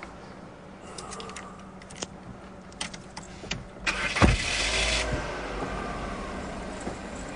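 A Citroën C4 hatchback being started. A few scattered clicks and knocks come first; about four seconds in, the starter cranks for about a second and the engine catches, then settles into a steady idle.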